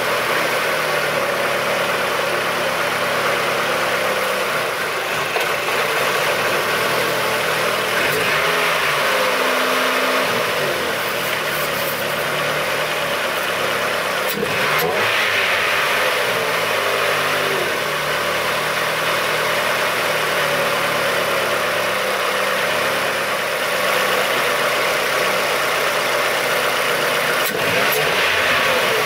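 Ford car engine idling, its speed rising and falling a few times, with two sharp clicks about halfway through and near the end.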